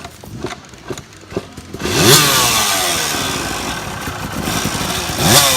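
Dirt bike engine revved hard about two seconds in, pitch rising then falling away as it keeps running loud, with a second sharp rev near the end: the rider throttling to power the bike out of deep mud. A few light knocks come before the first rev.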